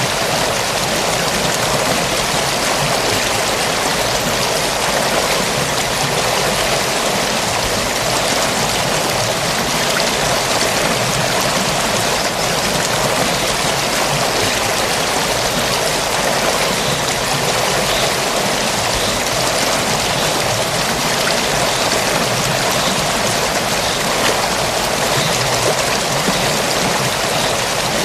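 Stream water flowing steadily, an even rushing without breaks or changes.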